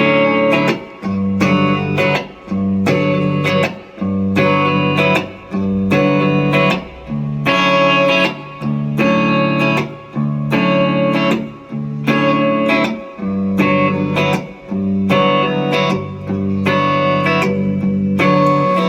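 Guitar playing the song's intro: a chord pattern strummed in repeating phrases of about a second and a half, each with a short break before the next, and no singing.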